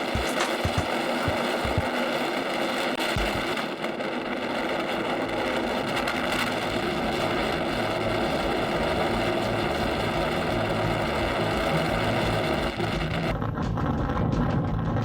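Motorcycle engine running steadily on the move, with a continuous engine drone throughout and a slight change in its tone about four seconds in.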